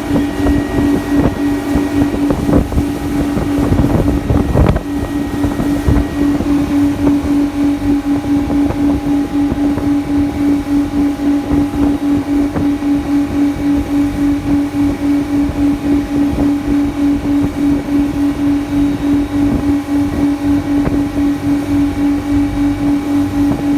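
Boat engine running at steady speed: a strong, even hum that throbs regularly, over low rumbling noise of wind and water. A few knocks in the first few seconds.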